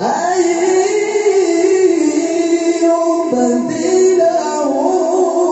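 A voice singing long, wavering held notes that step from pitch to pitch, in the melismatic style of Quran recitation (tilawah).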